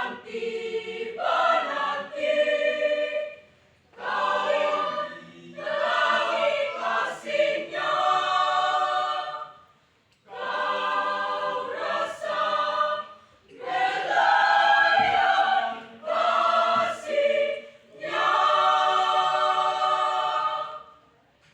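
School choir singing a church choral piece in phrases with short breath pauses, ending on a long held chord that cuts off near the end.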